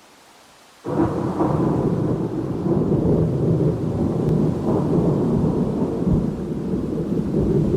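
Thunder: after a faint hiss, a loud rumble breaks in suddenly about a second in and rolls on without a break, deep and heavy throughout.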